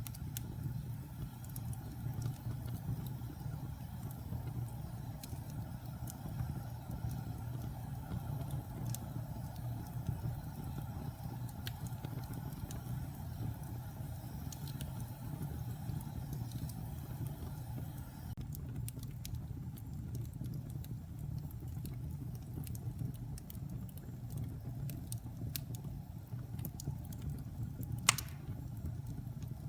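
Wood fire burning in a fireplace: a steady low rumble with scattered small crackles, and one sharp, loud pop near the end.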